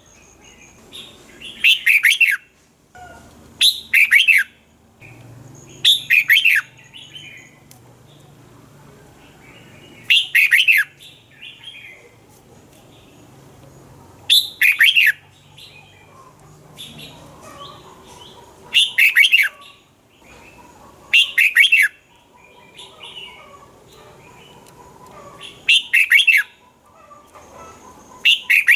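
Red-whiskered bulbul singing: short, loud, warbling phrases under a second long, repeated about nine times every two to four seconds, with softer chattering notes between them.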